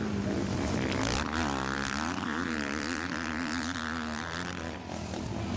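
Motocross bike engines revving on the race track, their pitch rising and falling repeatedly with the throttle.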